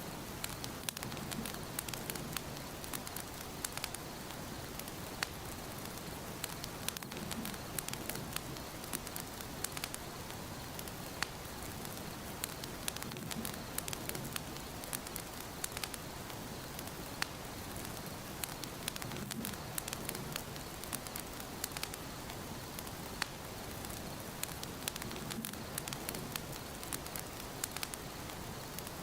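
Fireplace fire crackling, with frequent sharp pops and snaps over a steady hiss. A low rumble of the flames swells about every six seconds.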